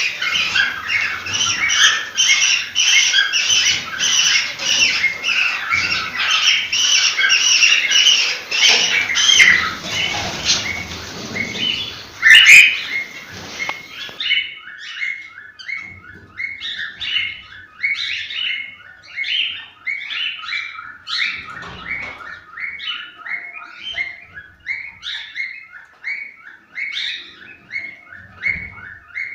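Cockatiels chirping and calling. For about the first half it is a dense, loud chorus of many birds, with one sharp, loud call about twelve seconds in. From about fourteen seconds on, it becomes a sparser, quieter run of quick repeated chirps.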